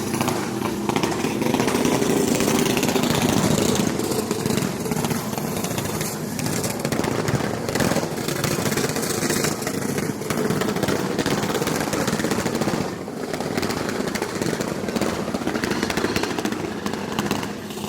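A vehicle engine running loudly and roughly, without a break, the loudest in the first few seconds.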